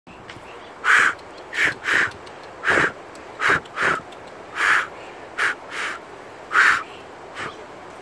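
A bird giving harsh, rasping calls, about a dozen short calls in eight seconds, several in quick pairs.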